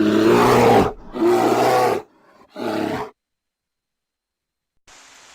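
Three loud roars, the third shorter than the first two, in a recorded intro, then a cut to dead silence.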